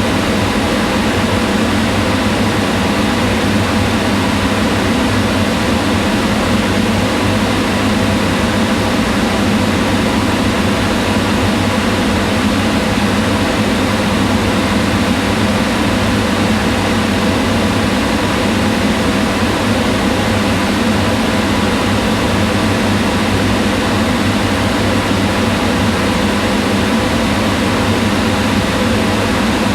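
Kitchen range hood fan running steadily: a constant whooshing of moving air with a low hum and a few steady tones.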